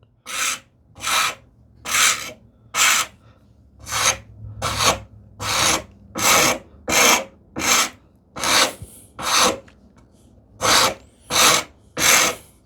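A hand rasp scraping across the end of a wooden tambour slat in about fifteen even push strokes, roughly one and a half a second, with a brief pause about ten seconds in. This rounds over the slat's sharp corners so they won't catch as the tambour door slides through its curved groove.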